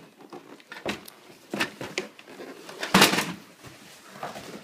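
Toy truck being pulled out of its cardboard box: a run of short rustles, scrapes and knocks of packaging, the loudest about three seconds in.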